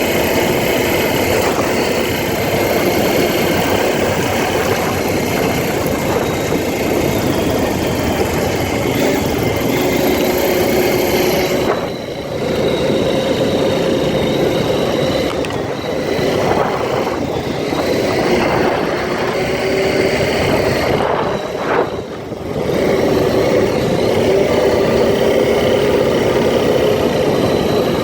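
ATV engine running steadily while riding, with the throttle eased off briefly twice, about twelve and about twenty-two seconds in.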